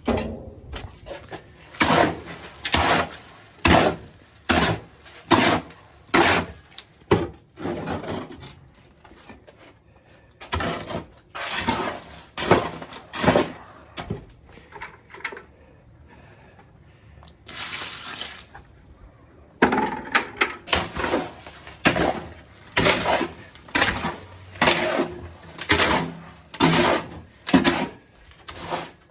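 Wet concrete mix being worked in a wheelbarrow: a tool scraping and churning through the mix in repeated strokes about once a second, with a few short pauses.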